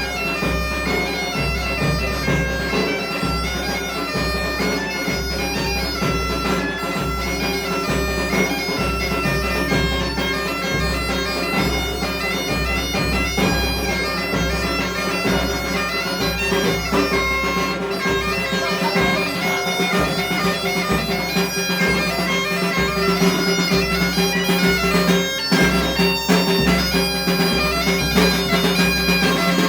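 Galician bagpipe (gaita) playing a tune over its steady drone, with a drum beating along.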